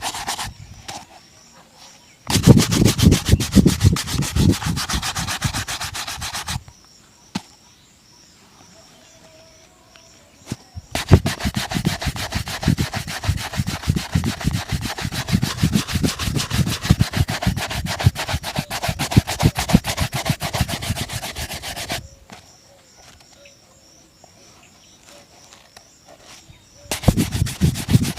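A shoe being buffed with fast back-and-forth rubbing strokes, in three bouts separated by pauses of a few seconds.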